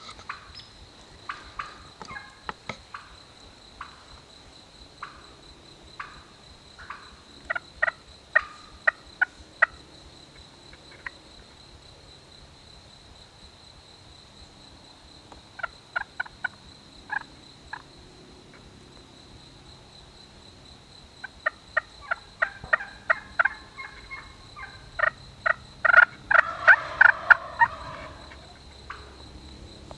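Wild turkeys gobbling, in repeated runs of short sharp notes, loudest in a long rolling gobble near the end.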